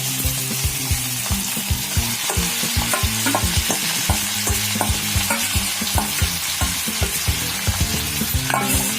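Raw chicken pieces sizzling and frying in hot mustard oil with an onion-tomato masala in a kadhai, stirred with a spatula. The sizzle is steady, with frequent short knocks of the spatula against the pan.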